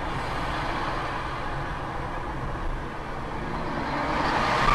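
Steady road and engine noise of a moving vehicle, a rumble with hiss, growing louder near the end.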